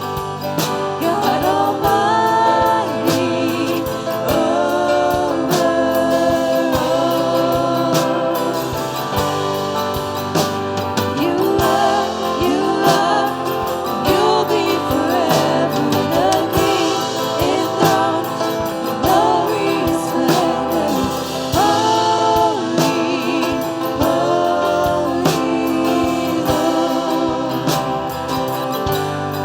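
Worship music: voices singing a slow song over instrumental accompaniment.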